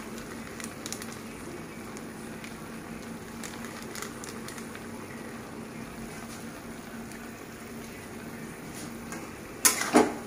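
Chicken, onions and whole spices sizzling gently in a kadhai over low heat, with faint scattered crackles. Just before the end, a loud clatter of the metal spatula against the pan as stirring starts.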